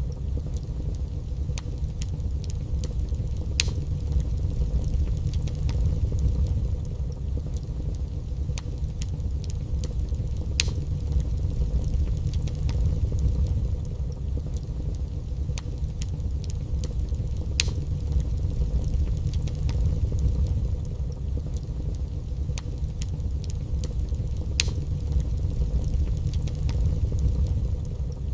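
Wood fire burning in a fireplace: a steady low roar with sharp crackles and pops scattered irregularly, one every few seconds.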